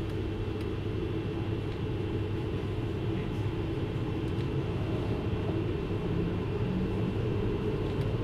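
JR Hokkaido 733 series electric multiple unit running along the line, heard from inside the passenger car: a steady rumble of wheels and running gear with a faint high steady tone above it.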